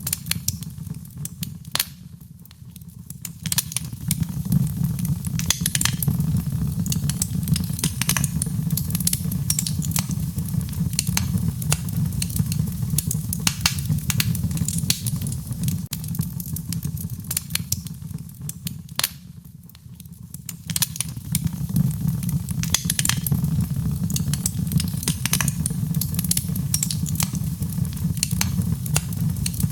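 Wood fire crackling: many sharp pops and snaps over a steady low rumble. It briefly drops quieter twice, about two seconds in and again near the twenty-second mark, then comes back.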